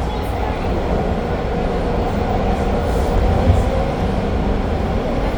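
Toronto TTC Line 2 subway train running between stations, heard from inside the car: a steady rumble of wheels on rail and running gear.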